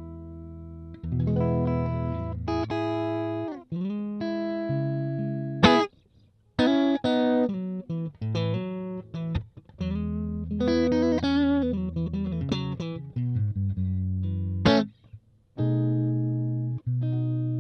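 Stratocaster electric guitar played through a Valeton Dapper Mini amp-simulator pedal. A held chord fades out, then short riffs follow, with string bends and notes cut off abruptly twice.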